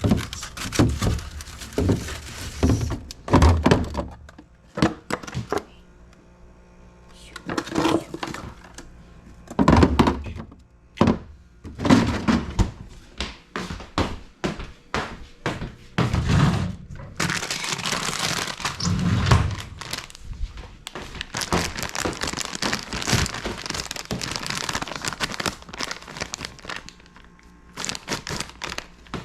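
Fridge being cleaned out: repeated knocks and clunks of containers and shelves being handled, with plastic crinkling, then a long spell of steady rustling and rubbing in the second half.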